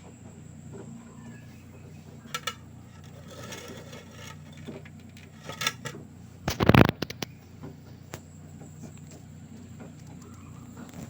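LG direct-drive washing machine running a cotton 60 °C wash: a steady low hum from the turning drum, scattered light clinks, and one louder thump about six and a half seconds in.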